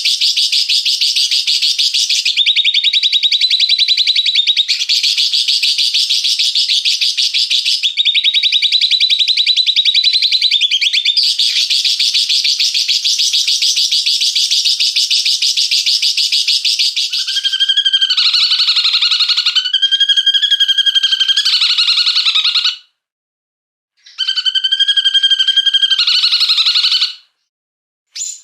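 Recorded songbird song of the harsh, rapid 'tembakan kasar' kind: a loud, unbroken stream of fast, high chattering notes. From about two-thirds of the way in it gives way to lower, buzzier repeated phrases, cut twice by sudden total silences where the recording is edited.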